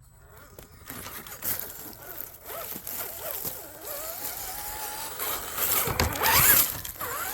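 Electric drive motor of an RC scale crawler whining, its pitch wandering with the throttle, while the tyres crunch and scrape over rough ground; the loudest scrape comes a little after six seconds in.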